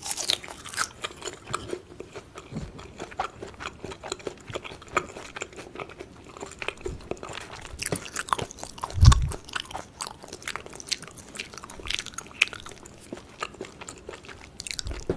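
Close-miked chewing of a mouthful of food: crunching bites and wet mouth clicks. A louder low thump comes about nine seconds in.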